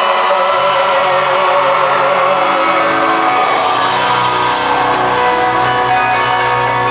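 Live country band playing loudly in an arena, with a long sung note wavering in pitch and shouts from the crowd.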